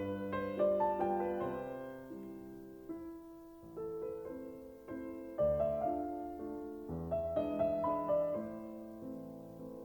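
Background music: slow, gentle solo piano playing chords and a melody, each note struck and left to fade.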